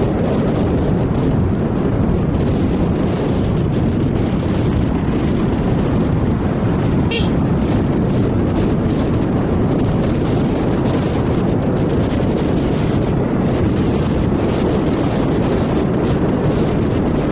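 Steady wind rush over the microphone with the running of a motorcycle underway, and a brief high-pitched chirp about seven seconds in.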